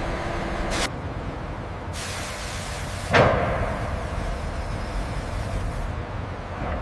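A single heavy clunk about three seconds in, over a steady low rumble, with a hiss from about two seconds in that stops about six seconds in.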